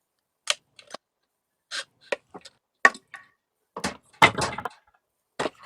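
A string of short, sharp knocks and clicks, irregularly spaced, with a denser clatter of them about four seconds in.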